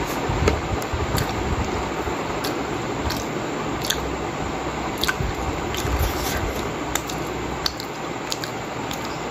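A person chewing and biting steamed pork momos close to the microphone, with short wet mouth clicks and smacks about once a second over a steady background hiss.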